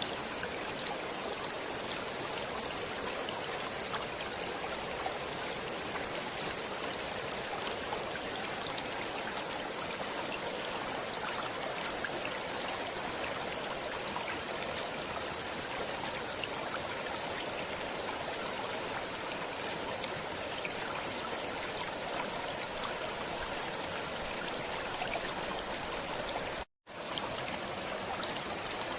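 A stream flowing steadily, its water trickling and splashing over stones. The sound cuts out completely for a split second near the end.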